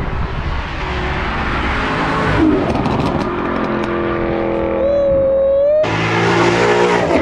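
Cars accelerating hard down a road as they pull out of a car meet, heard in a few short clips spliced together, with the engine notes rising. In the last clip a red Ford Mustang comes up the road under hard acceleration.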